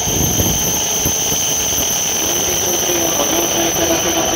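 E7 series shinkansen pulling into the platform, its nose and first cars passing close by with a rush of air and rolling noise as it slows to stop. A wavering squeal comes in from about three seconds in.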